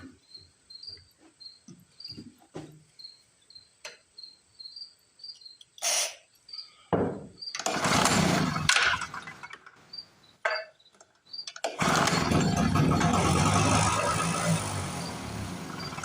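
Small two-stroke portable generator engine being pull-started: after some handling clicks, a hard pull about seven seconds in, then about a second before the end of the twelfth second it fires and runs for about four seconds, fading away as it dies for lack of fuel. Crickets chirp steadily in the background.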